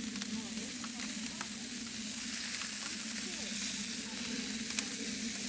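Food frying in a hot pan: a steady sizzle with scattered small pops.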